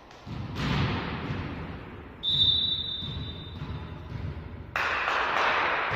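Referee's whistle blown once, a single steady blast about two seconds in, over the noise of a sports hall. A sudden louder burst of hall noise comes in near the end.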